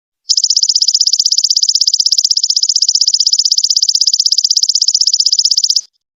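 Golden locust (belalang emas) insect calling: one fast, even, high-pitched buzzing trill of rapid pulses. It starts a moment into the clip and cuts off suddenly near the end.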